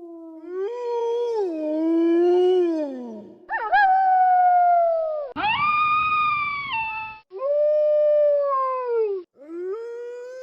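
Wolves howling: about five long howls one after another, each holding its pitch and then sliding down at the end, several stopping abruptly.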